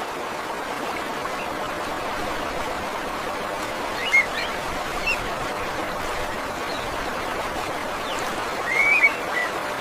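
Steady rush of a flowing stream, with a few short bird chirps about four and five seconds in and a louder run of chirps near the end.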